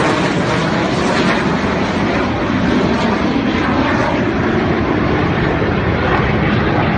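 Aircraft passing overhead: a loud, steady rush of engine noise.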